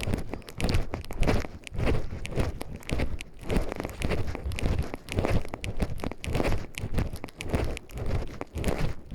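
A person's footsteps crunching on a forest path in a steady walking rhythm, about one and a half steps a second.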